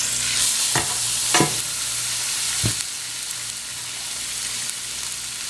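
Chuck roast searing in hot olive oil in a skillet: a steady sizzle, with three short knocks in the first three seconds.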